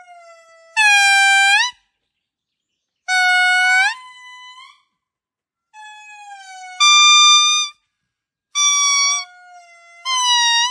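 A primate giving a series of about six loud, clear, whistle-like wailing calls, each under a second long and most sliding upward in pitch at the end, with short pauses between them.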